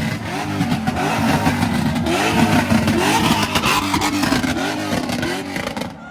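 Pontiac G8's engine being revved hard in quick repeated blips, the pitch climbing and falling two or three times a second.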